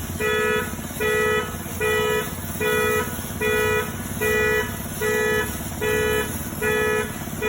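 An electronic alarm beeping steadily: the same pitched tone about half a second long, repeating about every 0.8 seconds, over a low steady hum.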